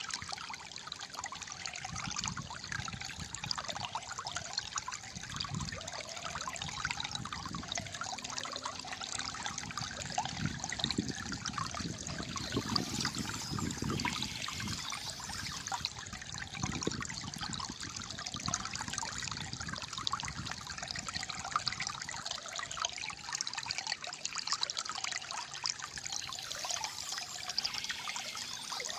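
Calm flowing water trickling and gurgling steadily.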